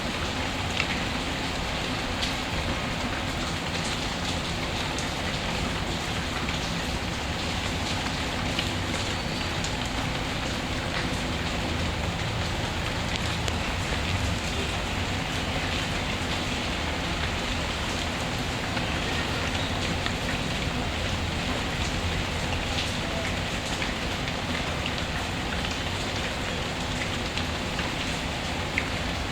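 Rain and fireplace ambience: steady rain falling, with scattered small crackles.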